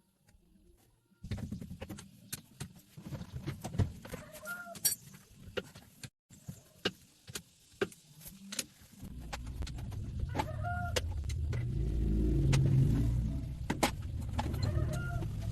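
Scattered clicks and knocks of hand work, then a low engine rumble that builds from about nine seconds in, peaks and eases off. A chicken clucks three times over it.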